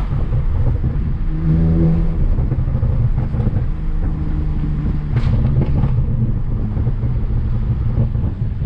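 BMW 335i's N54 twin-turbo inline-six running through a VRSF straight-pipe race exhaust, its note rising and falling with the throttle. A short sharp noise stands out about five seconds in.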